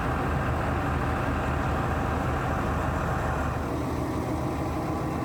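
Diesel engine of a Grove mobile crane running steadily, with the higher part of its sound easing slightly about three and a half seconds in.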